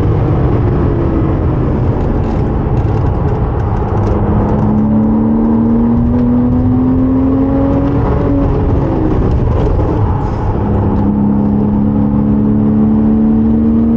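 Porsche 987.2 Cayman S flat-six engine pulling hard under acceleration. Its pitch rises steadily through a gear, drops at an upshift about eight and a half seconds in, then climbs again in the next gear.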